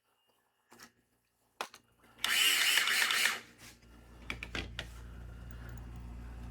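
Small electric motor of a heavy scratch-built slot car whirring in a loud burst of about a second, with the grinding of a slipping pinion gear, which the builder blames on the car's weight. A low steady hum sets in after it.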